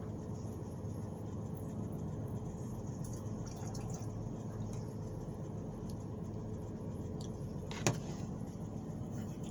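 Butter, rice and broccolini sizzling faintly in an Instant Pot on sauté, over a steady low hum, with one sharp click about eight seconds in.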